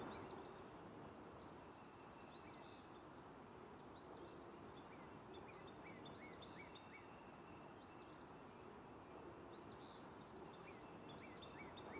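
Faint ambience: a steady low hiss with small birds chirping every second or so, in short rising-and-falling chirps, and a couple of quick trills.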